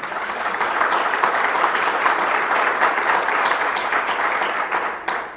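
Congregation applauding, swelling quickly and dying away near the end.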